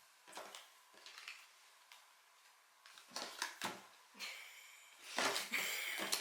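Light clicks and clacks of small hard objects being handled and set down on a table, followed near the end by a longer rustling, hissing sound.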